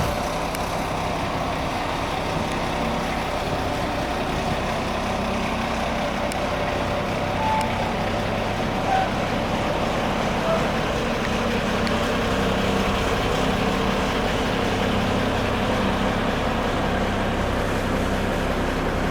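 Renault Midlum 220 dCi diesel truck engine idling steadily, with a few short high blips around the middle.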